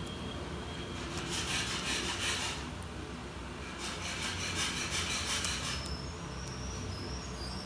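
Two bursts of dry rubbing or scraping, each lasting a second and a half to two seconds, over a steady low hum.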